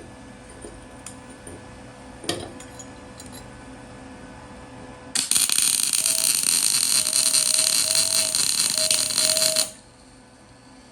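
MIG welder arc crackling steadily for about four and a half seconds, then stopping: a weld tacking a steel baffle plate inside an exhaust tube. A single sharp knock about two seconds in.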